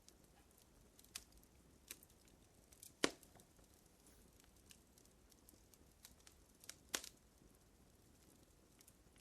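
Fire crackling: sparse, irregular snaps and pops over a faint hiss, the sharpest pop about three seconds in and another near seven seconds.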